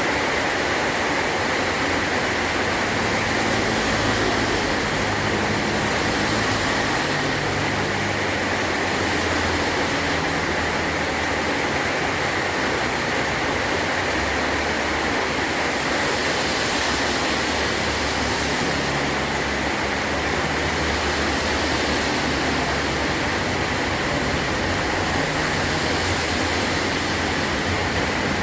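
Heavy rain drumming steadily on a metal tin roof, a dense, even downpour with no letup.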